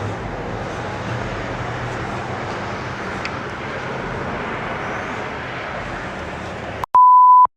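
Steady vehicle and road noise with a low hum, then near the end a loud single-pitch electronic beep lasting about half a second that cuts off into dead silence.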